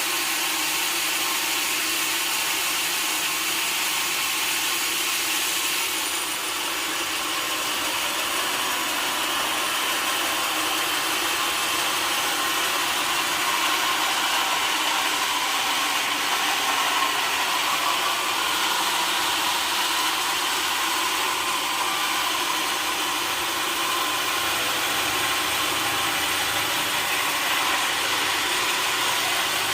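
Sawmill saw cutting steadily through a log of lacnat wood, a continuous even noise without breaks.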